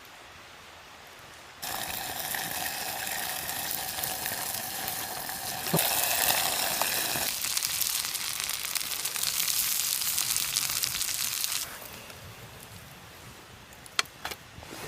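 Chicken sizzling hard in a hot sandwich maker. The sizzle starts suddenly about a second and a half in, grows louder around six seconds, and stops suddenly near twelve seconds. A few sharp clicks follow near the end.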